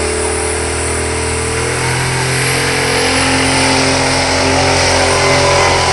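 Engine of a 3500 hp pulling semi truck running hard under load, its pitch shifting about two seconds in and growing slightly louder after.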